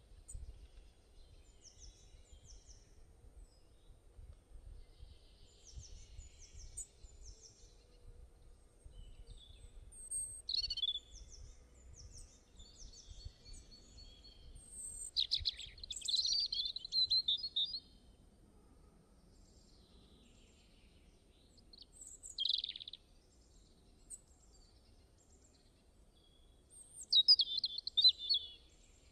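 Several birds calling and singing in short chirps and trills, with the loudest phrases about a third and halfway through and again near the end, over a faint low wind rumble.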